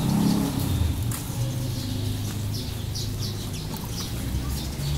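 Small birds chirping in short, quick notes, several clustered about halfway through, over a steady low rumble.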